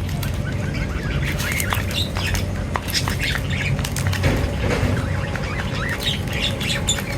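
A group of small birds chirping and twittering, many short calls overlapping, with sharp flutters and clicks among them and a steady low hum underneath.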